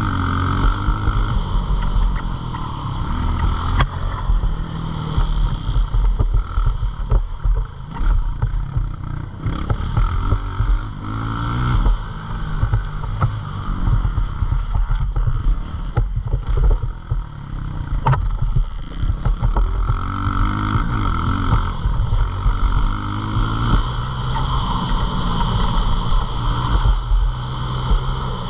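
Pit bike engine revving up and falling back again and again as the bike is ridden, its pitch rising and dropping every few seconds.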